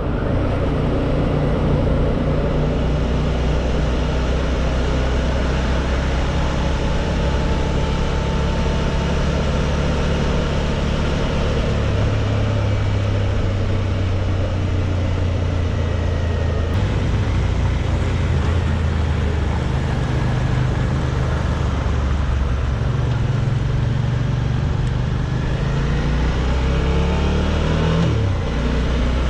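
Suzuki V-Strom 650's V-twin engine running steadily under way, with the rush of riding noise over it. The engine pitch drops sharply near the end.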